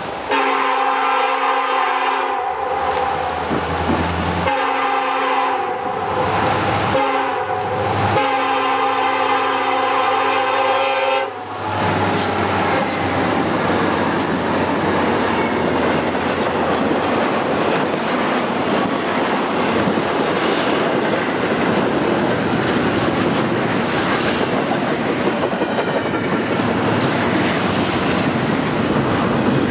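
Norfolk Southern freight locomotive's air horn sounding four blasts, long, long, short, long: the grade crossing signal. After about eleven seconds the horn stops and the diesel locomotives and double-stack intermodal cars roll past close by in a steady loud rumble.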